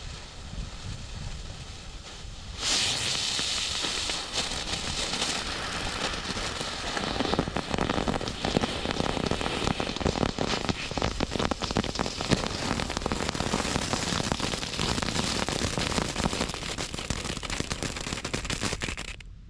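A string of firecrackers going off in a rapid, continuous run of pops and crackles. It starts about three seconds in and stops suddenly near the end.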